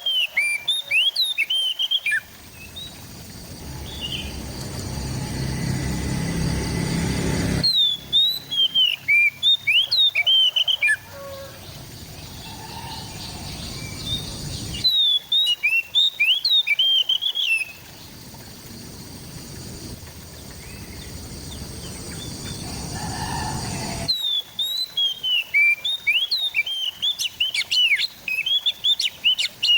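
Oriental magpie-robin (kacer) song in four bursts of rapid, sweeping whistled notes, each a few seconds long and coming about every eight seconds. Steady background noise fills the gaps between bursts.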